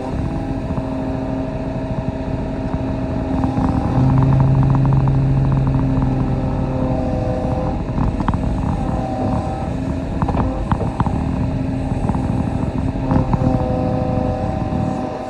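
Kobelco SK35 mini excavator's diesel engine running under working load as it digs. It grows louder with a deep tone for about three seconds partway through, and a scatter of short knocks follows.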